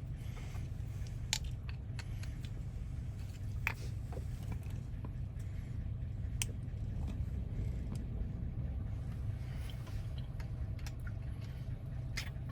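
A few sharp, isolated clicks and taps of small metal parts as a Toyota door lock cylinder is taken apart, over a steady low hum.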